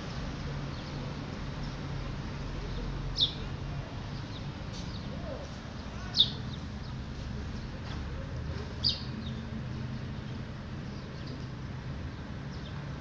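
A bird chirping: three sharp, short, falling calls about three seconds apart, with a few fainter ones, over a steady low hum.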